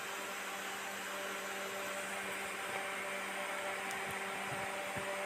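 A steady low electrical-sounding hum over a soft hiss, with a few faint ticks near the end.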